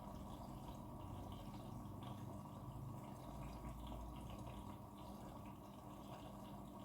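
Faint water trickling and dripping inside a front-loading washing machine, with a low rumble underneath.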